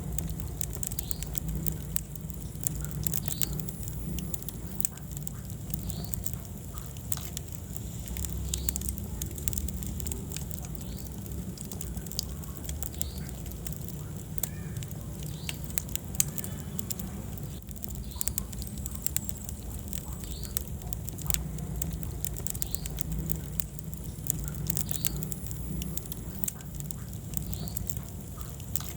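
Wood fire burning in a fireplace, crackling with frequent sharp snaps and pops over a steady low rumble of the flames.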